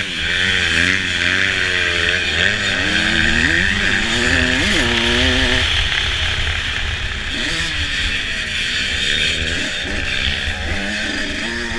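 Motocross bike engine revving up and down as it is ridden around the track, its pitch rising and falling quickly through the first six seconds, then running more steadily with smaller changes.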